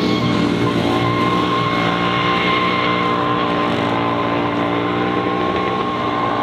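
Racing car engine running at steady revs, its note holding level with a thin whine above it.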